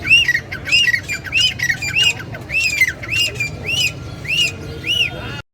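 A caged parrot squawking over and over, short arched screeches about two a second. The sound cuts off abruptly near the end.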